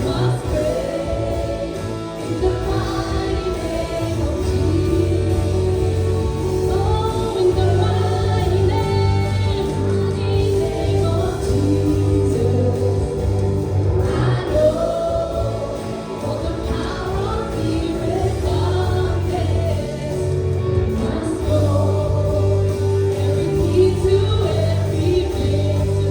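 A worship band and singers performing a congregational worship song, voices in choir-like unison over sustained bass and chords.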